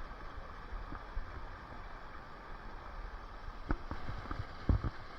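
Rushing river water with wind on the microphone, broken by a few short knocks, the loudest near the end.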